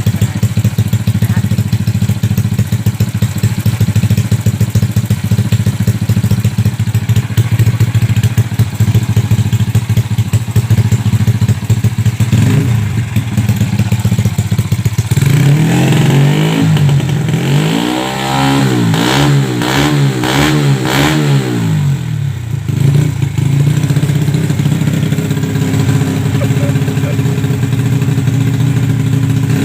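Honda Grand 130cc single-cylinder four-stroke engine through a Creampie aftermarket muffler, idling steadily. About halfway through it is revved in a run of quick rising and falling blips, then settles back to idle.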